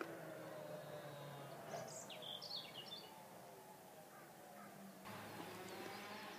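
Faint birdsong in open countryside: a short burst of high chirps about two seconds in, over quiet steady background noise.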